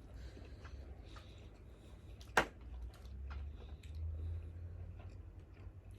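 Quiet meal-table sounds: small faint clicks over a low steady rumble, with one sharp click or clink about two and a half seconds in.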